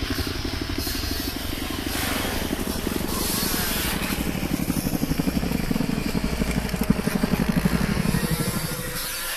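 Motocross dirt bike engine running hard, its fast firing pulses swelling and easing as the rider works the throttle.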